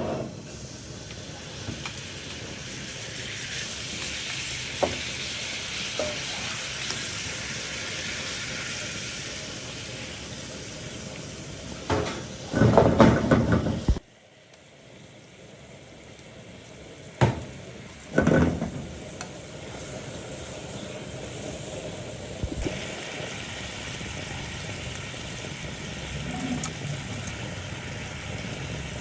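Food sizzling in hot oil in a pan, a steady hiss broken by a few loud knocks about twelve seconds in. The sizzle cuts off suddenly about halfway, then carries on more quietly, with two more knocks and a slight rise near the end.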